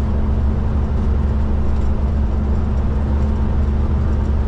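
Kenworth K200 cabover truck's diesel engine running steadily while driving, a low, even drone with no change in pitch.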